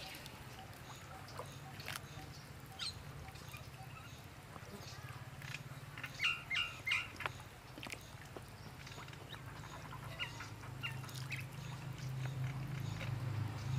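Short bird calls, with a cluster of three about six seconds in, over a steady low hum that grows louder near the end.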